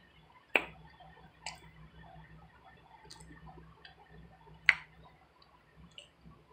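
Mouth sounds of eating powdered starch up close: two sharp smacking clicks about four seconds apart, with fainter clicks between.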